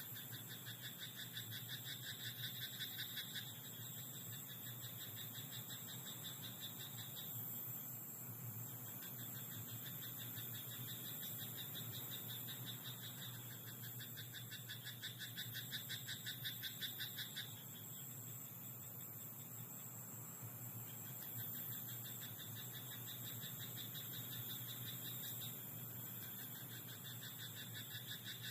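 Frogs in a rice paddy croaking in a chorus: rapid pulsed trills lasting a few seconds each, one bout following another with short gaps.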